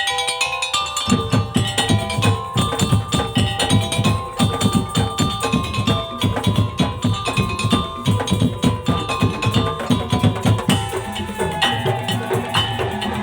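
Madurese daul (tong-tong) percussion ensemble playing: a fast, dense beat of wooden slit drums and drums, with a melody of held tones carried over it.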